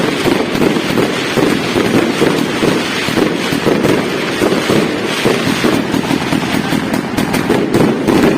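Fireworks going off in a dense, continuous barrage of rapid pops and crackles, with no break.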